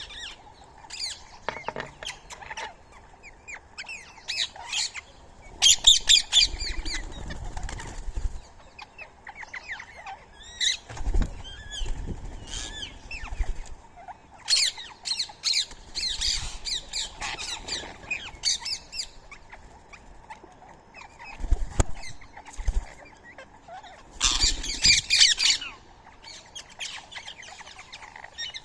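Birds calling in repeated bursts of sharp chattering and squawks, with a few low thumps between the bursts.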